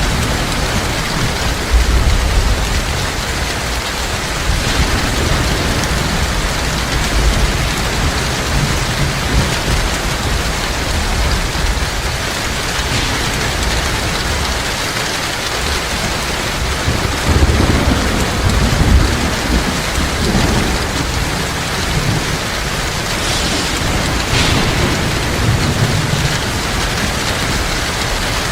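Heavy rain pouring steadily, with low thunder rumbling several times underneath.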